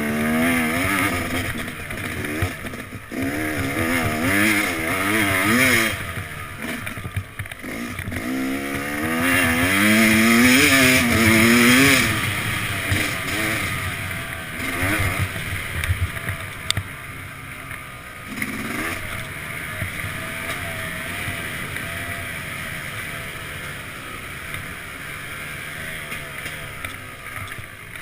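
Yamaha YZ250X two-stroke single-cylinder dirt bike engine being ridden, revving up and falling back again and again, loudest about ten seconds in. In the second half it runs lower and steadier.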